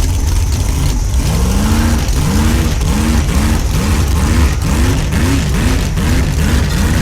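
Vehicle engine running with a heavy low rumble. From about a second in, a repeated rising-and-falling whoop sounds about twice a second and comes a little quicker toward the end.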